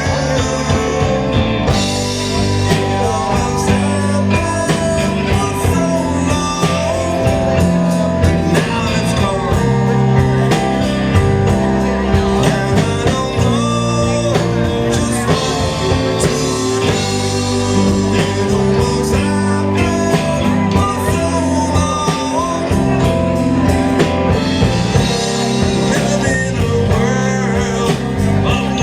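Live blues band playing a steady-tempo number, with a lead vocal over the band.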